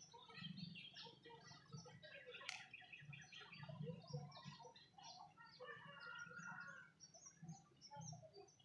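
Faint chorus of birds chirping: many short, overlapping calls throughout.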